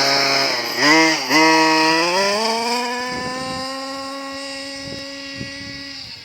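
Zenoah G270 25.4cc two-stroke engine of a 1/5-scale RC car with a side-exit tuned pipe, blipped twice about a second in, then held at a steady high rev that grows steadily fainter.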